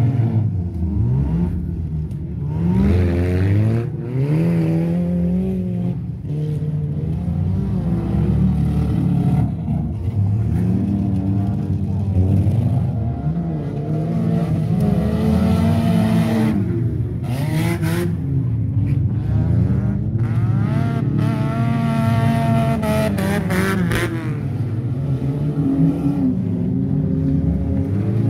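Engines of old wreck-race cars revving hard on a dirt track, several at once, their pitch rising and falling as the drivers accelerate and lift off. A few short sharp bangs come about two-thirds of the way through.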